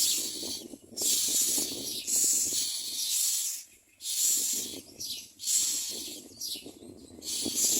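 Common myna nestlings begging in the nest: a run of harsh hissing rasps, each under a second, with a short pause about three seconds in.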